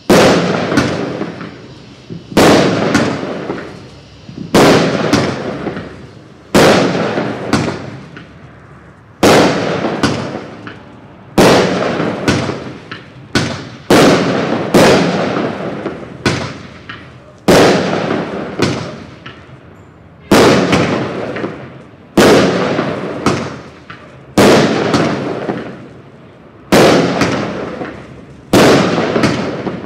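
Black Cat 'Two Minute Fireworks Show' 63-shot consumer cake firing its aerial shots: a sharp bang about every one and a half to two seconds, each one dying away over a second or so before the next.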